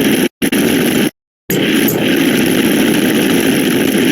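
A dense, steady rough drone from the counting video's sound effects, played fast enough to blur together, cutting out abruptly for a split second and again for about half a second near the start.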